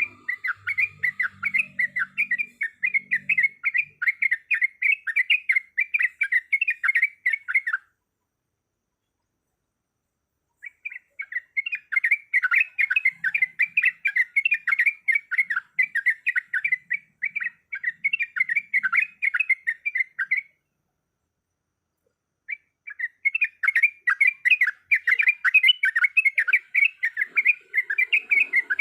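Yellow-vented bulbul (trucuk) singing its rapid rolling song: fast runs of repeated chattering notes in three long bouts, with silent pauses of about two seconds between them.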